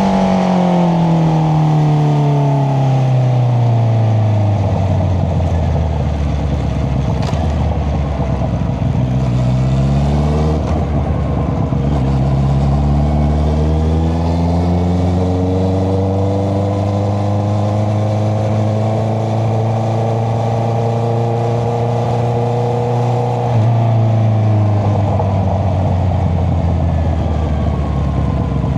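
Honda CBR650R inline-four engine through an Akrapovic exhaust, heard on board while riding. The revs fall off for the first few seconds, then pick up again about ten seconds in and hold a steady cruise, with a step in the engine note and a brief rise in loudness, a gear change, a little before the end.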